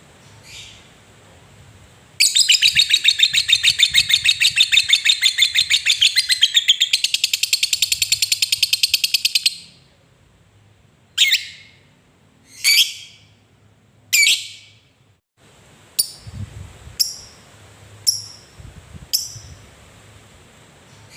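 Lovebird giving its long 'ngekek' song: a rapid, loud chattering trill lasting about seven seconds. It is followed by a few separate sharp calls that fall in pitch, then shorter chirps.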